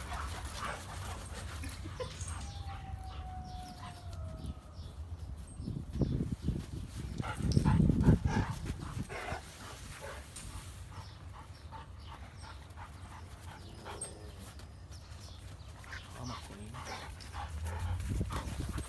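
Dogs playing together: scuffling and paw clicks, with a faint falling whine a few seconds in and a louder low rumble near the middle, over a steady low hum.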